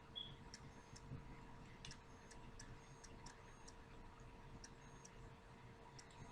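Near silence: faint room hum with a scattering of soft, irregularly spaced ticks.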